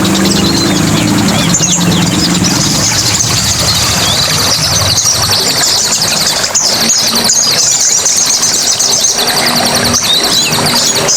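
A dense chorus of songbirds chirping and trilling rapidly and without a break, high-pitched.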